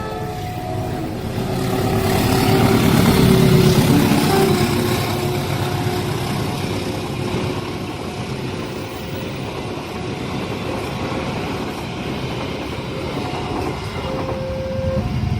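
Train running past a railway level crossing: a broad rumble that swells about two seconds in and then holds. Short stepped tones of the crossing's electronic warning bell return near the end.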